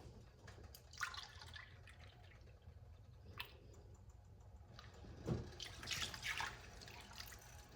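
Milk being added and stirred into a butter-and-flour roux in a skillet: faint liquid sloshing and dripping, with a few short, light clicks spread through.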